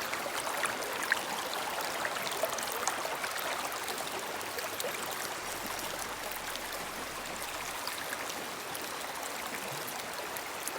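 A shallow brook running over rocks: a steady rush and trickle of water, with small splashes scattered through it.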